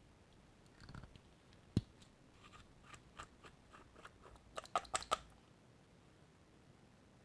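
Small clicks and crunches of makeup and slime being handled close to the microphone, with one sharp tap about two seconds in and a quick run of four or five clicks near five seconds in.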